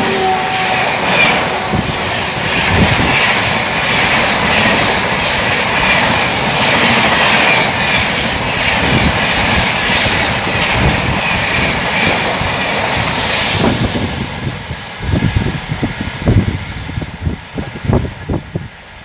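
Express train of LHB coaches running through the station at speed: a loud, steady rush of wheels and air with repeated clatter from the wheels over the rail. It begins with the fading end of the locomotive horn's dropping note. About fourteen seconds in the rush dies away as the last coach passes, leaving a few heavy low thumps of buffeting.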